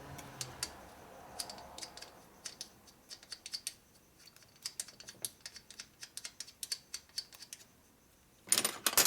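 Light metallic clicks and taps of small engine hardware and hand tools being handled, with a louder metal clatter near the end.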